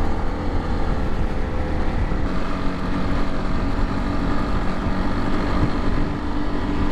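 Motorcycle engine running at a steady pace while riding, a continuous drone mixed with road and wind noise.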